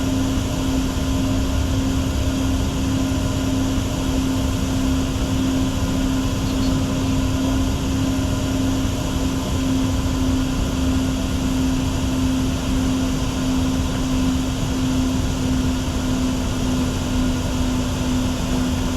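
Steady cockpit noise of a Bombardier Challenger 604 business jet in flight: an even rush of air with a constant low hum running under it.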